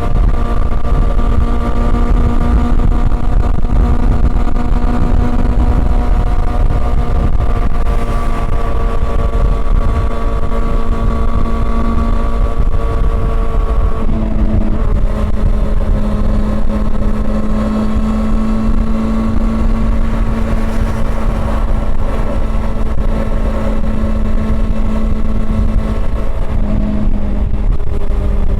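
Honda CB400 Super Four's inline-four engine running at steady cruising revs, with a heavy low rumble underneath. About halfway through, the engine note drops a little and then holds steady again.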